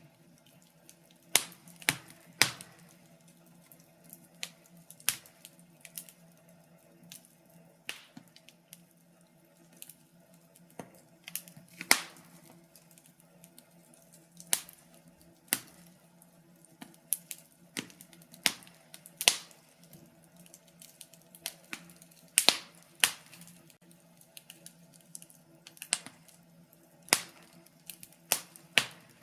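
Wood fire crackling, with irregular sharp pops and snaps at uneven intervals, a few of them much louder than the rest. A faint low steady hum runs underneath.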